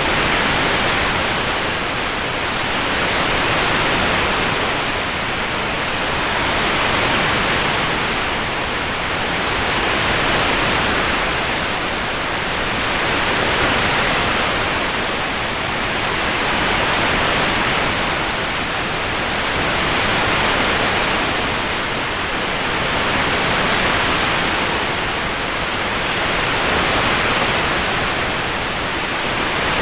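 Steady hiss of a rain-sound ambience track, swelling and easing gently about every three seconds.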